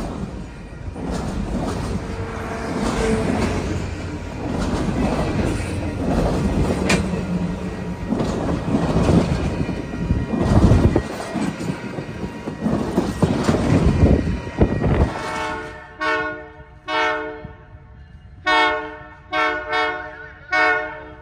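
A freight-style train rolling past with a steady rumble and rush of wheels on rail for about fifteen seconds. Then the locomotive horn sounds a string of short blasts.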